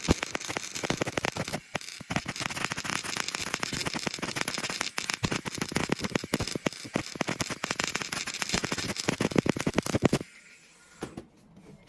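Electro-spark deposition (cold welding) electrode sparking on a metal surface: a dense, rapid crackle of tiny discharges that stops about ten seconds in, leaving a few scattered clicks.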